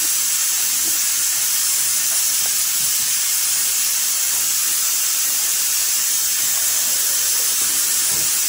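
Chicken meat sizzling in a pan: a steady, even hiss.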